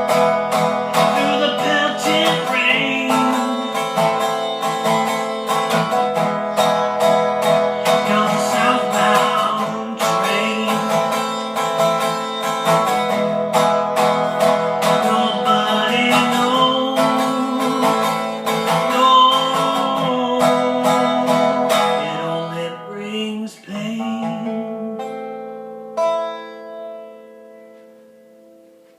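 Instrumental acoustic string music, fast-picked on guitar, with no singing. Near the end it slows to a final chord and a last ringing note that fades out.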